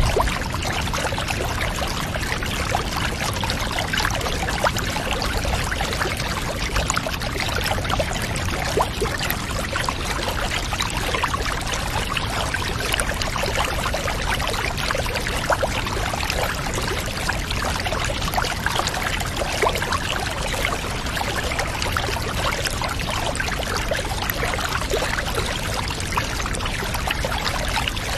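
Water running steadily into a bath, an even pouring trickle with many fine small splashes, unchanging throughout.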